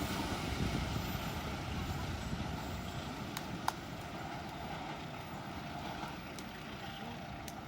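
Rumble of a passing train slowly fading as it moves away, with a few faint clicks.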